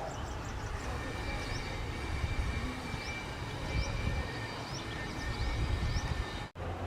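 Small birds giving scattered short, high chirps over a steady low rumble and a faint steady high tone. The sound cuts out for an instant near the end.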